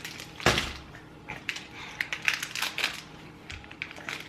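Scattered crackles and crunchy clicks of a chocolate bar with crushed peanuts being handled, broken and bitten, with one louder knock about half a second in.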